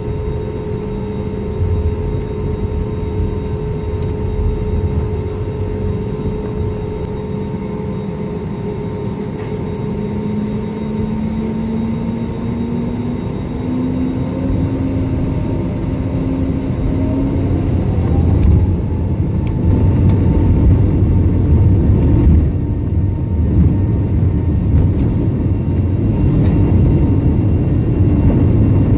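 Airbus A320neo cabin noise: a steady low rumble with a jet engine whine that rises in pitch as the engine spools up, growing louder about two-thirds of the way through, heard from inside the cabin.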